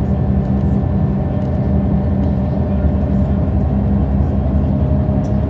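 Scania L94UB city bus running steadily under way: a constant low engine drone over road rumble.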